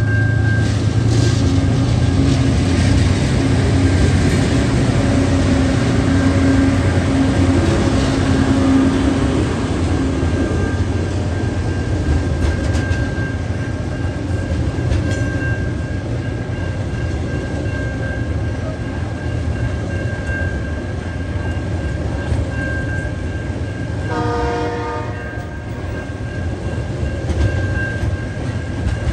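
Freight train's hopper wagons rolling past over a level crossing: a steady rumble of wheels on rail, with the diesel locomotives' engine drone fading over the first ten seconds. A level-crossing warning bell rings throughout. A brief pitched sound with several tones cuts in about 24 seconds in.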